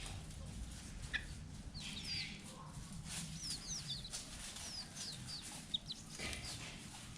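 Junglefowl clucking softly now and then, with a run of short, high, falling chirps in the middle.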